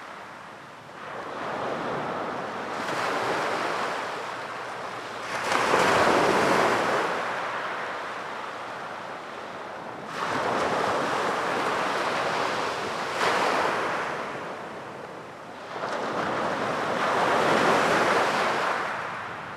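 Sea waves breaking and washing onto a beach, the surf swelling and falling back every few seconds, with four louder surges.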